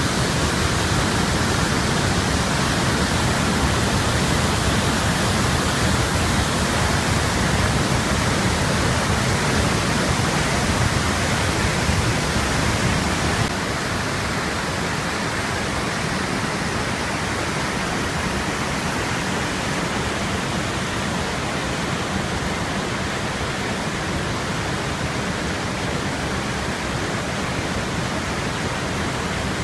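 Waterfall, the Iguaçu Falls, a steady dense rush of falling water that drops a little in level about 13 seconds in.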